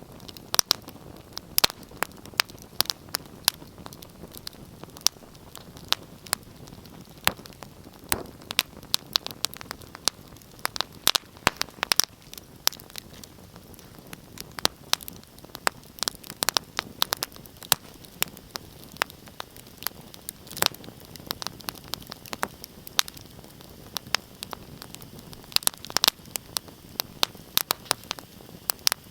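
Wood fire crackling in a fireplace: irregular sharp pops and snaps, several a second, over a steady low hiss of burning.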